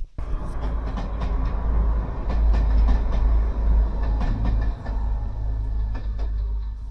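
A train passing close by: a steady deep rumble with scattered clicks and clatter from the wheels on the track.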